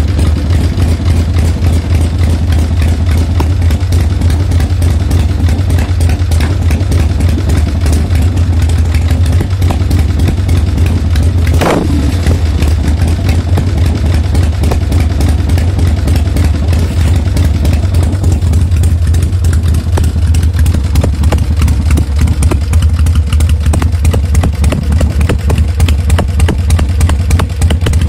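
1966 Harley-Davidson Panhead V-twin engine idling steadily, with an even, unchanging beat of firing pulses.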